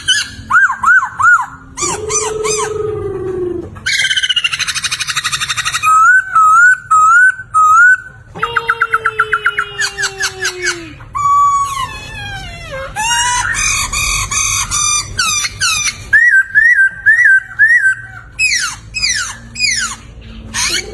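Poksay (laughingthrush) singing a loud, varied song of whistled phrases: runs of repeated looping notes, fast trills, and long sliding, falling whistles, one phrase after another with short pauses.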